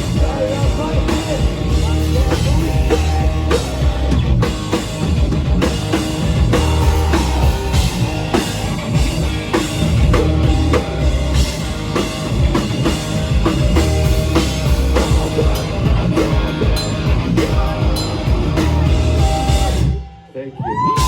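Rock band playing live: a full drum kit keeping a steady beat under electric guitars and bass. The band cuts off suddenly about a second before the end.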